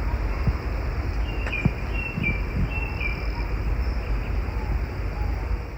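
Outdoor countryside ambience: a steady low rumble under a faint, steady high insect drone, with a few short, high bird chirps about one and a half to three seconds in.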